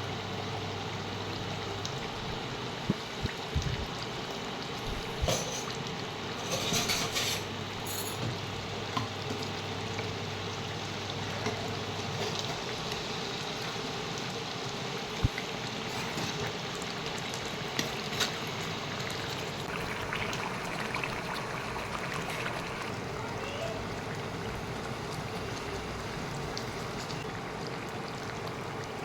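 Chicken korma sizzling steadily in a cooking pan, with a few sharp clicks scattered through.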